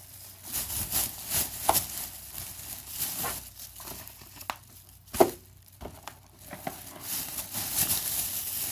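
Shopping bag rustling and crinkling in irregular bursts as items are handled, with one sharp, loud crackle a little past the middle.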